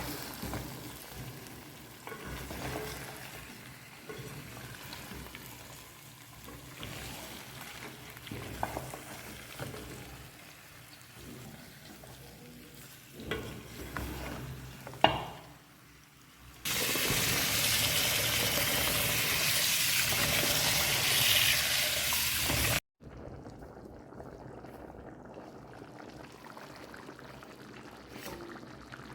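Food frying in hot oil in a cooking pot, with a spoon stirring and scraping and clicking against the pot. About 17 s in, the sizzling turns much louder and even for about six seconds, then stops abruptly.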